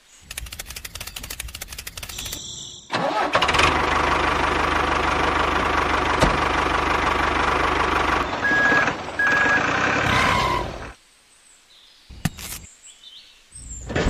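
Tractor engine cranking with rapid clicking for about two seconds, then catching and running steadily for about eight seconds, with two short beeps partway through, before it cuts off suddenly.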